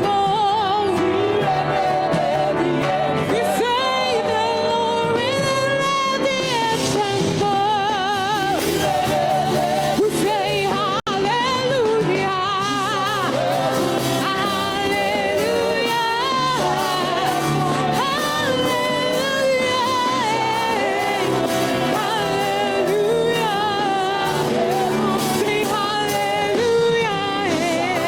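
Worship music: voices singing with a wavering vibrato over steady instrumental accompaniment, with a brief dropout about eleven seconds in.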